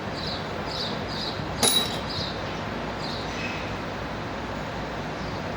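Steady outdoor traffic and workshop background noise, with one sharp metallic clank about a second and a half in and faint high chirps here and there.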